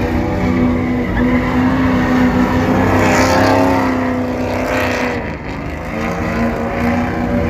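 Truck engine running loudly at a steady pitch, the note sagging briefly about five seconds in.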